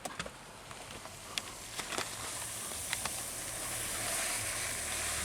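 A car engine running and drawing closer, with its low hum and tyre hiss growing louder from about two seconds in. A few light clicks come before it.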